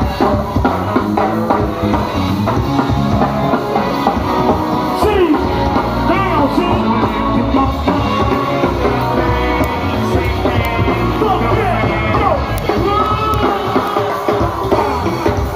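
Loud go-go music: a steady drum-and-percussion groove with bass, and a voice singing over it.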